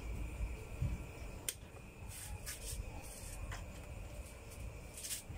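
A few light clicks and knocks with some rustling as a power cord is handled and plugged into the side socket of an electric ice crusher; the machine itself is not yet running.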